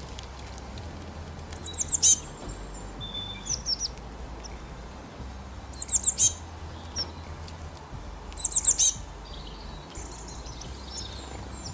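A songbird chirping in four short phrases of quick, high notes that sweep downward, the phrases a second or two apart, over a steady low background hum.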